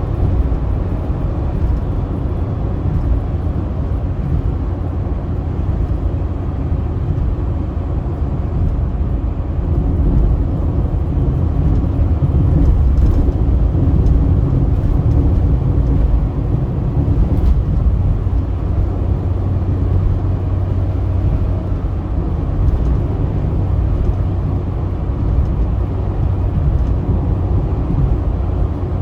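Steady low rumble of a car driving at speed on a highway: engine and tyre road noise with a low hum, no sudden events.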